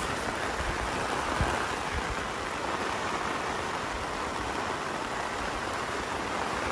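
Heavy rain falling steadily on the fabric of a rooftop tent, heard from inside.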